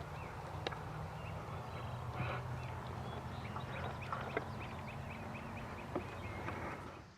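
Small birds chirping repeatedly, with scattered sharp clicks like twigs snapping underfoot, over a steady low hum.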